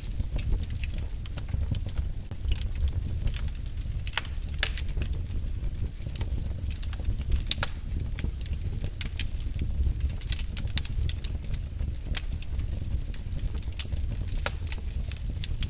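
Wood fire burning in a fireplace: a steady low rumble of flames with frequent irregular crackles and sharp pops, a few of them louder.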